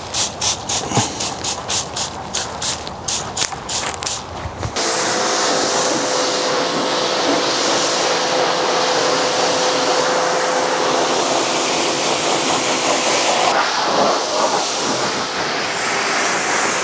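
Pressure washer spraying water during a car wash: about five seconds of rapid pulsing, about four pulses a second, then a steady hiss with a faint steady whine, which cuts off abruptly near the end.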